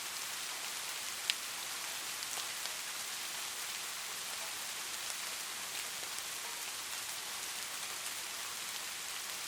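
Light rain falling steadily: an even hiss of fine drops with scattered individual drop ticks, one sharper tap about a second in.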